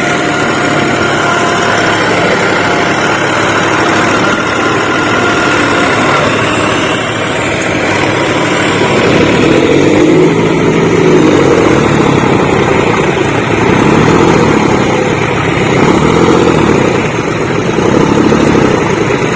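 Diesel tractor engines running. From about nine seconds in they get louder, and the pitch rises and falls as the engines rev.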